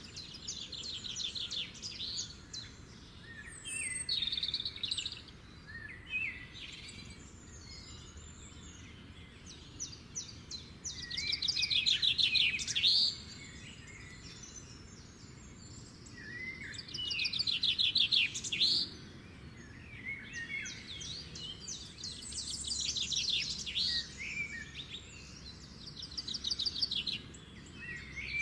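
Songbirds singing in repeated phrases of rapid trilled notes. The loudest phrases come about twelve and eighteen seconds in.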